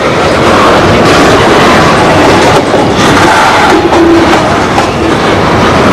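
A train running on the rails, a loud, steady noise of wheels and cars.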